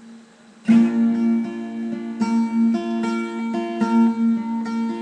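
Guitar playing a slow instrumental intro: a chord struck about a second in, then single notes picked one after another, ringing over the held chord.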